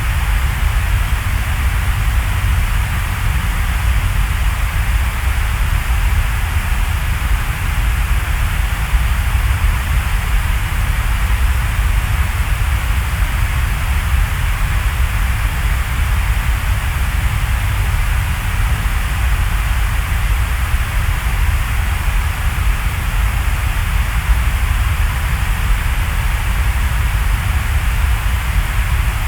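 Steady rain falling: an even, unbroken hiss with a deep rumble underneath.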